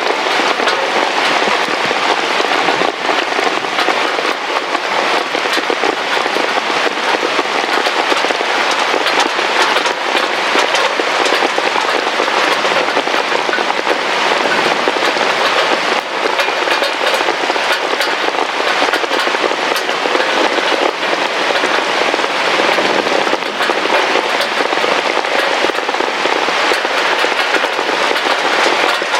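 Heavy rain falling steadily, a dense patter of drops striking a hard surface.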